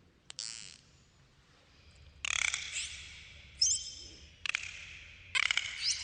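Dolphins calling: a series of short buzzing pulse trains, each about half a second long, some carrying a short upward-gliding whistle. The calls come every second or so, the sharpest about halfway through.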